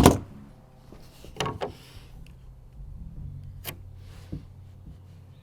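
Lumber knocking as it is handled: one loud sharp knock, then a few lighter knocks and clicks, over a low steady hum.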